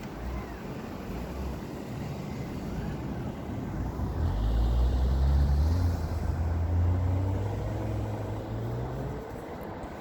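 A motor vehicle's engine running on a snowy street, with a low hum that swells about four seconds in and eases off near the end.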